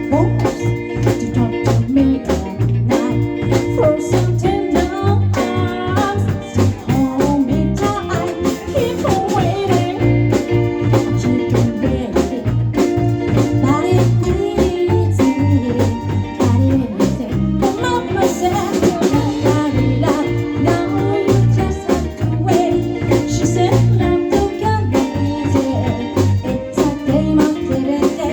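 Live band playing a blues-style song, with guitar over a steady beat on the drum kit.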